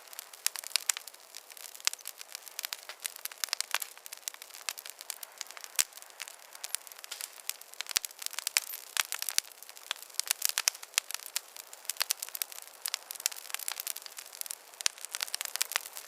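Wood campfire crackling, with a quick, irregular run of sharp snaps and pops over a soft hiss.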